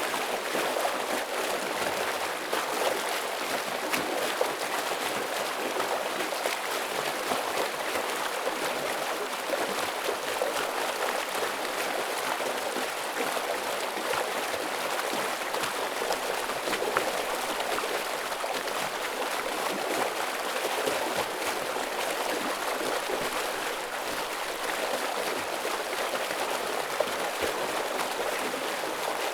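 Heavy stream water flowing over rocks: a steady rushing with quick splashes and gurgles in it.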